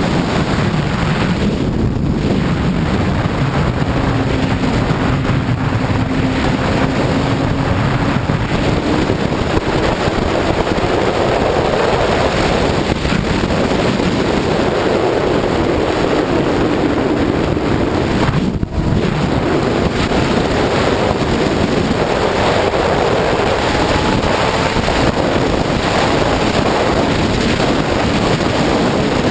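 Heavy wind rush over the microphone of a sportbike ridden at freeway speed, with the motorcycle's engine heard faintly beneath it, its pitch rising and falling with the throttle. The rush drops out briefly about two-thirds of the way through.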